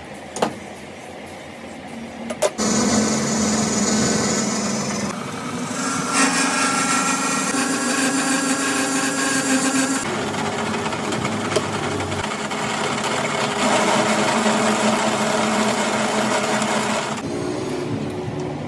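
Workshop power tools running steadily, the pitch and tone changing abruptly every few seconds as one tool or cut gives way to another.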